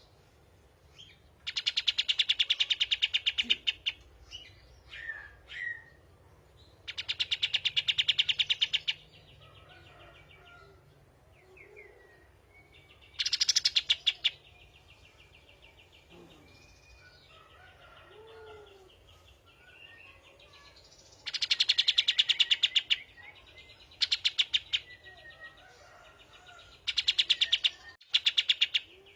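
Songbirds singing in a kapas tembak, canary and white-rumped shama song mix: six loud, fast rattling trills, each one to two and a half seconds long, with softer whistles and short chirps between them.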